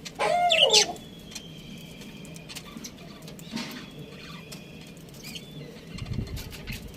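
Budgies (parakeets) calling: a loud, warbling call just after the start, then softer chirps and thin whistles. A low rumble comes near the end.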